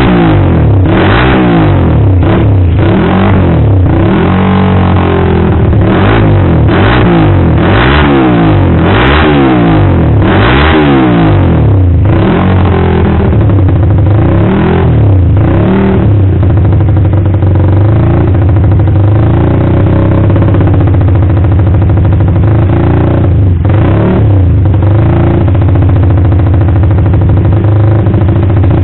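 Suzuki Satria FU's single-cylinder four-stroke engine, breathing through an aftermarket exhaust, revved in quick blips about once a second, then held at a steadier, gently wavering rev from about twelve seconds in.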